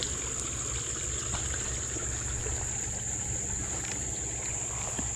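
Steady high-pitched drone of insects, over a low rumble and a few faint clicks.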